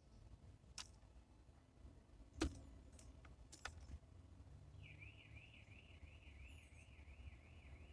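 A few sharp taps and clicks at the bird feeder, the loudest about two and a half seconds in. From about halfway through, a bird whistles a fast, repeated slurred phrase, about three a second.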